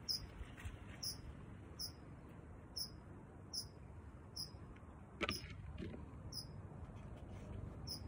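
A bird repeating a short, high chirp that sweeps downward, about once a second, over a steady low rumble. A brief louder noise a little after five seconds in.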